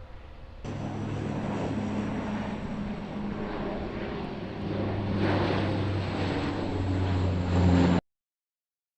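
Propeller aircraft flying, a steady low engine drone with rushing noise that grows louder, then cuts off abruptly about eight seconds in.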